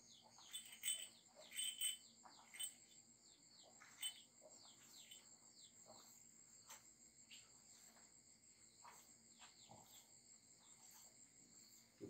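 Faint chirping of small birds, many quick falling notes, busiest in the first few seconds and sparser after, over a steady high whine.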